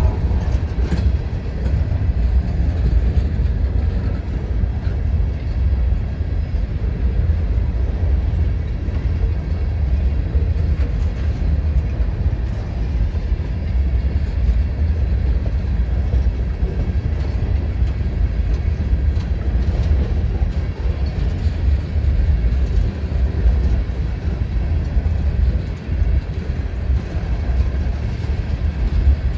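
Freight train rolling past, a steady heavy rumble with faint rattling.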